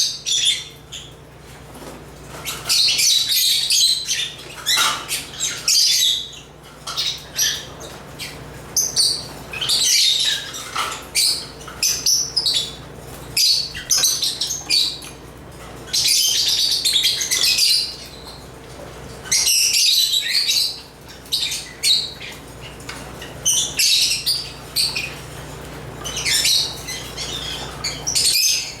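Lovebirds (Agapornis) chirping and chattering in quick, high-pitched bouts of a second or two, with short pauses between them.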